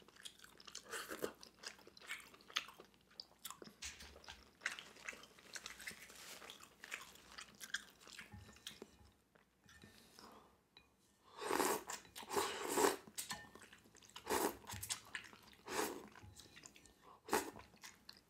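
Close-miked chewing of steamed clams in a garlic-butter sauce: small wet mouth sounds and bites, irregular, with a few louder ones about two-thirds of the way through.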